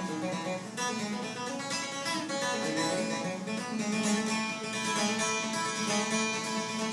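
Acoustic guitar picking an instrumental passage between sung verses of a country-folk song, with bright plucked notes over a steady bass line.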